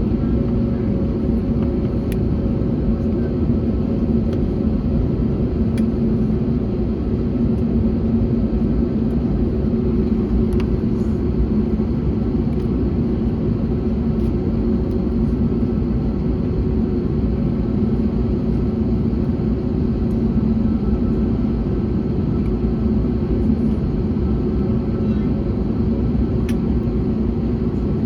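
Steady drone of an Airbus A321neo heard inside the passenger cabin: its Pratt & Whitney PW1100G geared turbofans and the airflow make an even low rumble with a faint steady hum, unchanging throughout.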